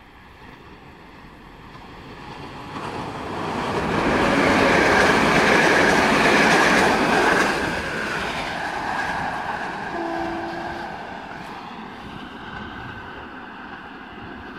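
Passenger train hauled by a PKP EP07 electric locomotive passing underneath. It grows steadily louder and is loudest for about three seconds as it goes by, then drops away quickly and fades as it draws off. A brief steady tone sounds partway through the fading.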